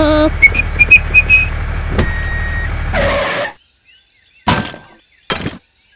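Low, steady engine-like rumble with a few short high chirps over it in the first second or so. It cuts off abruptly about three and a half seconds in, and two brief bursts of noise follow.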